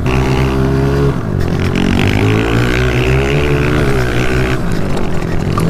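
Honda CRF125 pit bike's single-cylinder four-stroke engine being ridden hard, its pitch rising and falling with throttle and gear changes. It drops about a second in, then climbs again.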